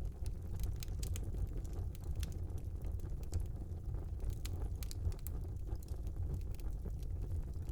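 Fire burning in a small fireplace, crackling with many short sharp clicks over a steady low rumble.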